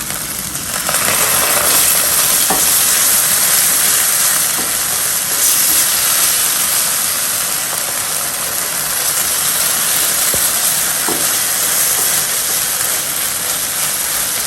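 Sauce frying and sizzling in a hot pan while it is stirred, the hiss swelling about a second in and holding steady, with a couple of light knocks of the utensil against the pan.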